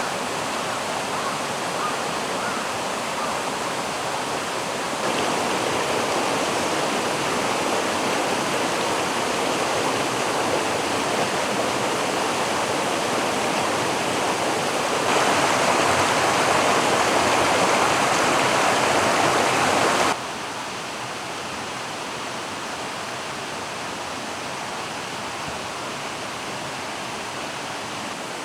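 Mountain stream rushing steadily. Its loudness jumps up twice and then drops suddenly about two-thirds of the way through.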